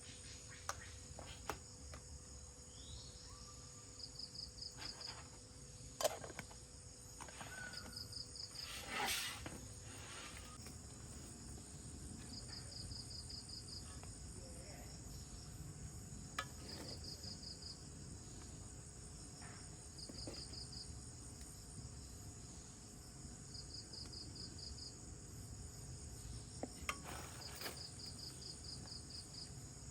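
Insects trilling steadily, with short rapid chirps repeating every few seconds. A few sharp knocks sound over them.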